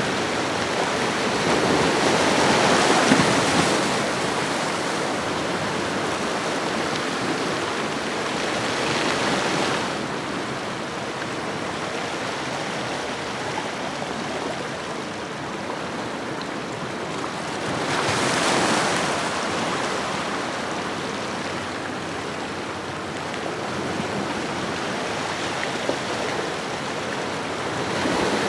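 Ocean waves washing onto a shoreline: a continuous hiss of surf that swells as waves break, about three seconds in and again a little after eighteen seconds.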